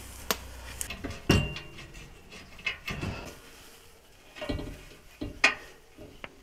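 Scattered metal clinks and knocks of bolts and hand tools being handled, the loudest a knock about a second and a quarter in followed by a short metallic ring.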